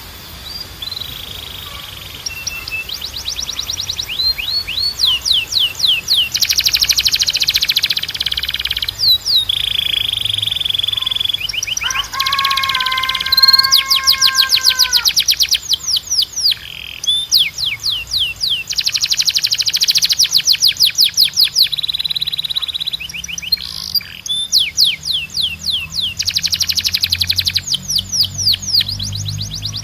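Spanish Timbrado canary singing a long, continuous song: fast rolls of rapidly repeated falling notes, broken by held whistled notes and, about halfway through, a lower held note.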